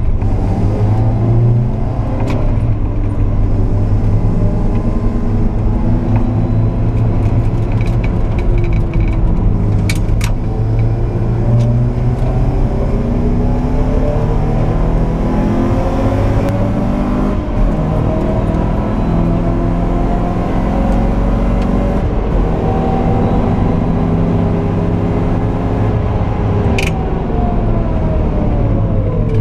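Alfa Romeo Alfasud 1.5 TI's flat-four engine heard from inside the cabin while driven hard on track. The revs climb repeatedly through the gears and fall away on lifts and downshifts, over a steady low road rumble, with a few brief sharp clicks.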